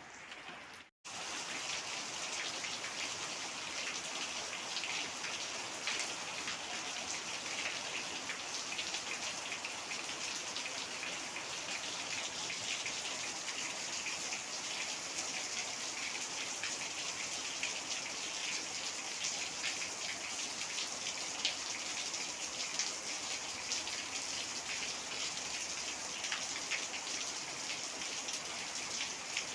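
Heavy rain falling steadily, a dense patter of many drops. About a second in, the sound cuts out for a moment and comes back louder.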